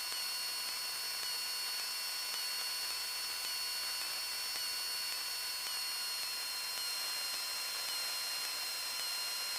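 Steady electronic hiss with several faint, constant high-pitched whine tones: the noise floor of a light aircraft's intercom/radio audio feed with nobody transmitting.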